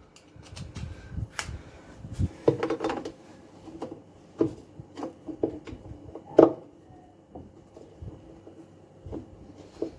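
Scattered clicks, knocks and rubbing as a screwdriver works at the screw holding a top-load washing machine's pulsator and the plastic parts are handled. One sharper knock stands out about six and a half seconds in.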